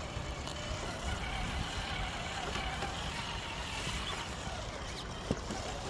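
Traxxas TRX-4 RC crawler driving over a trail, its electric motor and gears making a faint whine that wavers in pitch with the throttle, over a steady rumble of distant highway traffic. A single sharp click about five seconds in.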